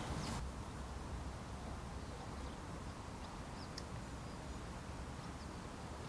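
Forest ambience: a steady low rumble with a few brief, faint bird chirps.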